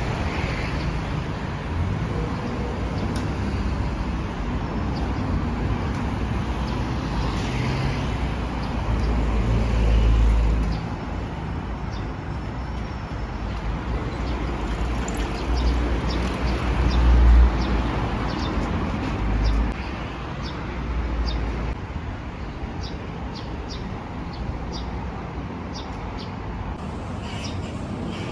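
Road traffic passing outdoors: a steady noise bed with several low rumbles that swell and fade as vehicles go by. Faint, short, high clicks come in scattered through the second half.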